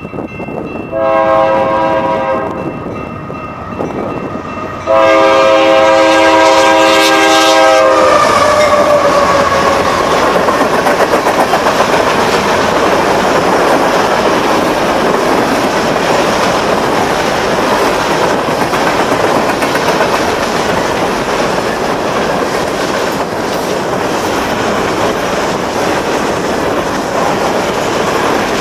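GE AC4400CW diesel locomotive's air horn sounds two blasts, the second longer and louder, and its pitch drops as the locomotive passes. Then empty grain hopper cars roll by with a steady clickety-clack of wheels over the rail joints.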